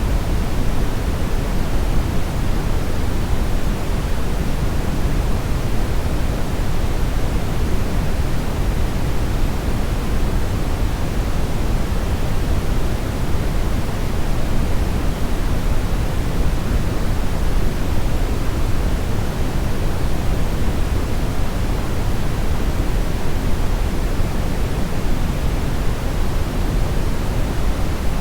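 Steady brownish noise: an even, unchanging rush weighted towards the low end, with no events or changes.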